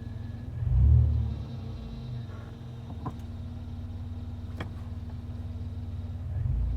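Supercharged Toyota 3.4-litre V6 idling steadily after a cold start, with low rumbling swells about a second in and near the end. The intermittent ticking the owner is chasing has not started yet. Two sharp single clicks are heard about three and four and a half seconds in.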